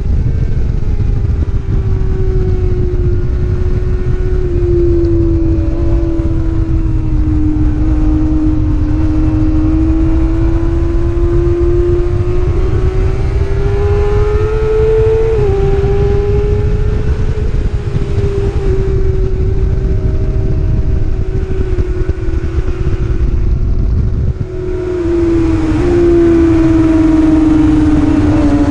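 Race motorcycle engine heard onboard at speed, its pitch drifting up and down with the throttle, over heavy wind noise on the microphone. Near the end it dips briefly, then comes back louder.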